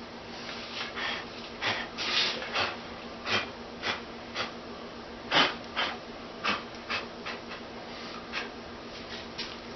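Irregular short scrapes and rubs, roughly one or two a second, of hand work on a foundry sand mold, touching up a spot damaged while the pattern was drawn.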